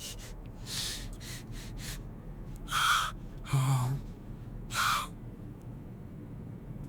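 Four short, harsh crow-like caws spaced a second or two apart.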